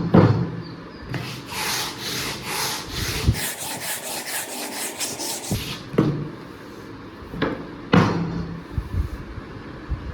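A hand tool scraping back and forth on wood in a run of strokes that quicken to several a second, framed by a few sharp wooden knocks at the start and again about six to eight seconds in.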